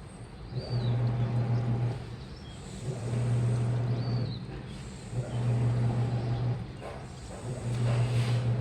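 Washing machine in its wash cycle: the drum motor hums for about two seconds at a time with short pauses between, four times, as the drum turns the load in stop-start strokes.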